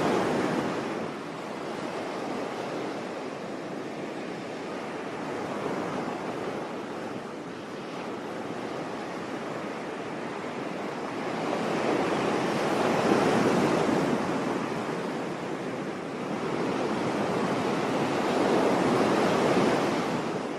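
Sea waves breaking on a beach and washing back in slow swells, with the louder surges about halfway through and again near the end.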